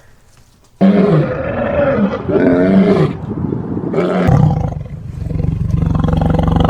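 Big cat roaring: a loud call that starts suddenly about a second in, with bending pitch, then a steady, rough, rapidly pulsing low growl from about halfway through.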